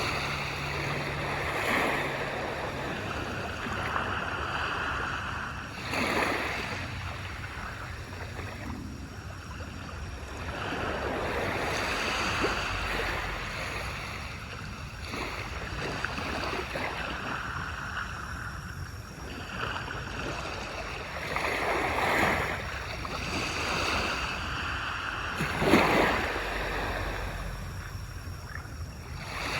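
Surf on a beach: waves breaking and washing up the shore one after another, the sound swelling and fading with each wave, the loudest break near the end.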